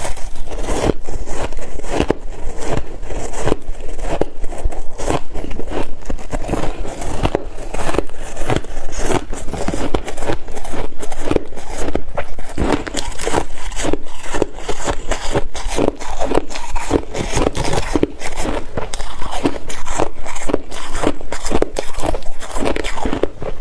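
A person biting and chewing ice, a dense run of crunching, crackling bites one after another without a break.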